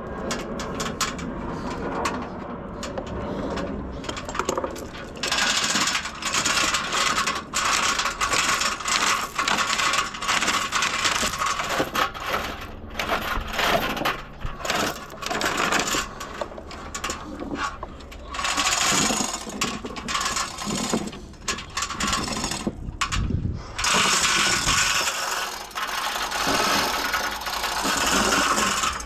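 Tools at work on a car's engine: repeated bursts of mechanical rattling and clicking, with short pauses between them.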